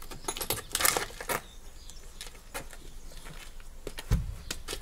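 Small metal parts clinking and rattling in a few short bursts, with a dull low thump near the end.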